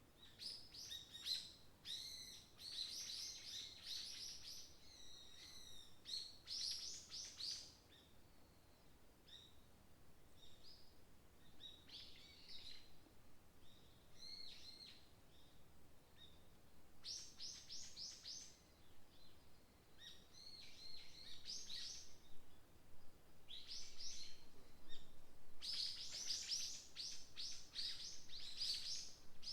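Several small songbirds singing and chirping in a forest, in rapid high-pitched phrases that come thickest in the first few seconds and again near the end.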